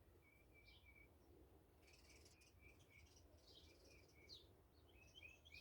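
Near silence with faint, scattered high chirps of small birds, growing busier after about two seconds.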